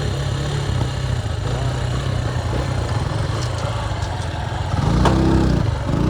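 Motorcycle engine idling steadily, then revved up and back down once, briefly, about five seconds in.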